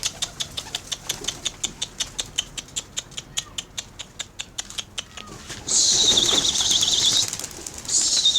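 Homing pigeons taking off, their wings clapping in a quick even rhythm of about five to six beats a second. About six seconds in, a shrill trilling whistle is blown, the loudest sound, then blown again near the end.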